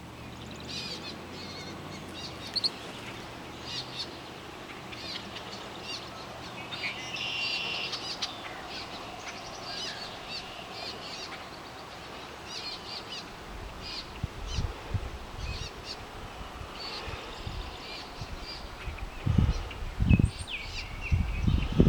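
Several birds chirping and calling in short, repeated high notes, with irregular low rumbling bursts from a little past the middle, loudest near the end.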